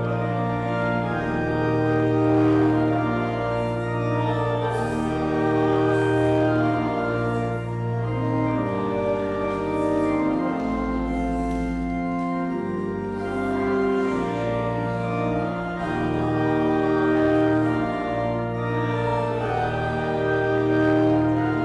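Organ playing slow, sustained chords that change every second or two, with a deep bass note held briefly about halfway through.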